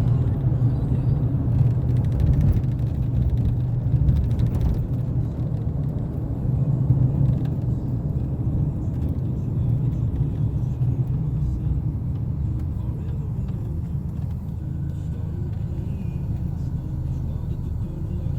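Taxi driving along, heard from inside the cabin: a steady low rumble of engine and road noise.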